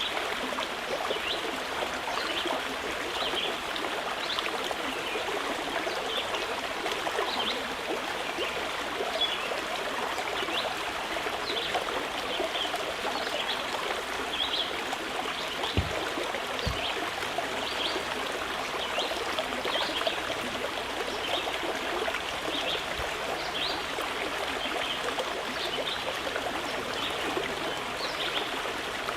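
Mountain river flowing over rocks, a steady rushing and babbling of water. Two short low knocks come about halfway through.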